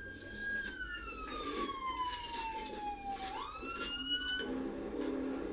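Police car siren wailing: its pitch falls slowly for about three seconds, then rises quickly and cuts off about four and a half seconds in, over a steady low rumble.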